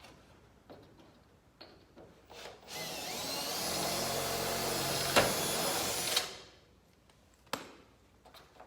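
Electric drill drilling out a rivet. It runs for about three and a half seconds, its whine rising as it spins up, with a sharp crack near the end before it stops. A few light knocks come before and after.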